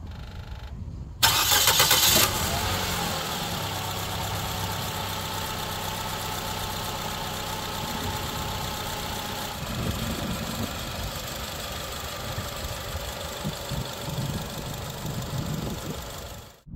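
A car engine starts about a second in with a brief loud burst, then settles to a steady idle.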